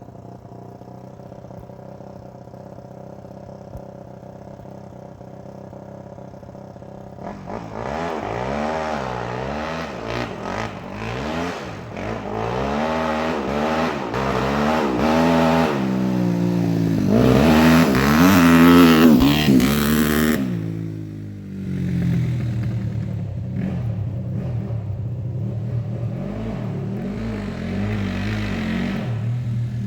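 Suzuki RM-Z250 single-cylinder four-stroke dirt bike engine running steadily, then revved and accelerated again and again, its pitch rising and falling. It is loudest about two-thirds of the way through, then eases to a steadier run near the end.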